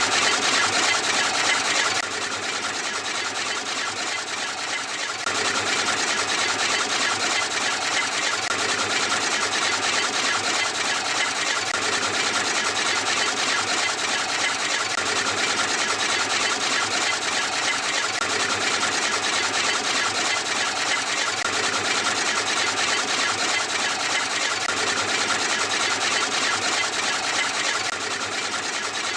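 A small electric motor running steadily, its level dropping about two seconds in and rising again about five seconds in.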